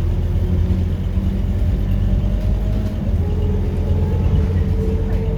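Scania K230UB Euro 4 city bus's diesel engine running on the move, a steady low rumble with a faint whine that comes in about three seconds in and rises gently.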